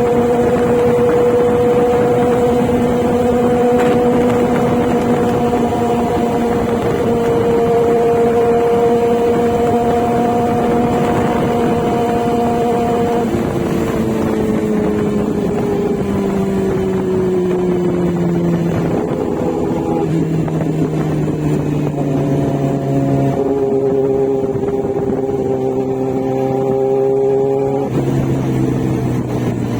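A motorcycle being ridden: its engine holds a steady pitch at cruise, then the revs fall for several seconds as it slows, with a few sudden steps in pitch near the end.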